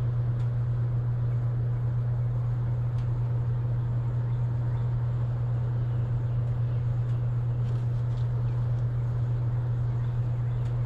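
An R22 air-conditioning condensing unit running, giving a steady low hum.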